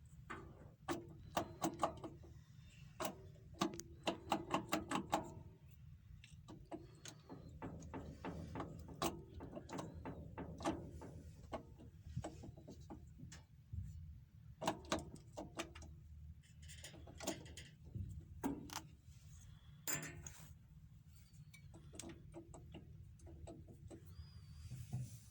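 Hand tools at work on engine parts: irregular metal clinks, knocks and ratchet-like clicks, some in quick runs, over a steady low hum.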